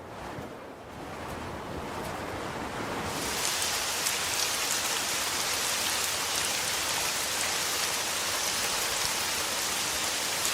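Heavy rain pouring down steadily, building to a stronger downpour about three seconds in.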